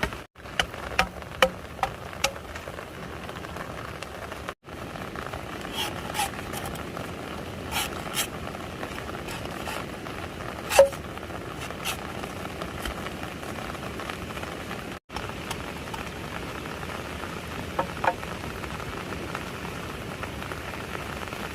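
Steady rain, with scattered sharp taps and drips.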